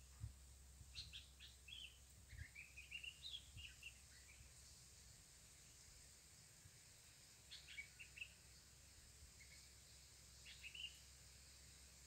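Faint songbird chirps and twittering in three bouts: a longer run of quick chirps about a second in, then shorter bursts around eight seconds and near the end, over a steady low hum.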